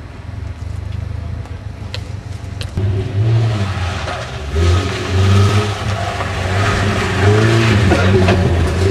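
Ford Escort rally car engine revving hard, its pitch rising and falling over and over as the car is driven flat out through tight corners. It grows louder about three seconds in.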